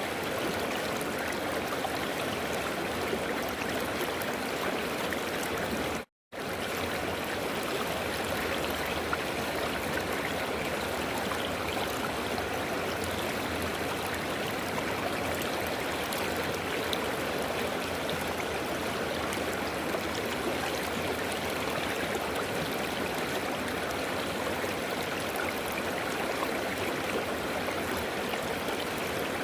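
River water flowing over stones, a steady rushing and gurgling. The sound cuts out completely for a split second about six seconds in.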